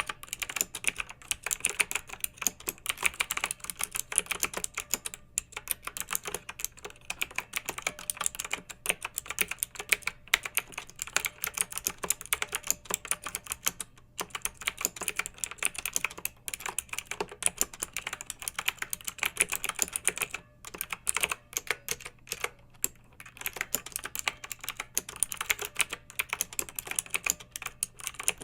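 Continuous fast typing on a clicky mechanical keyboard, rapid sharp keystroke clicks with a few brief pauses between bursts.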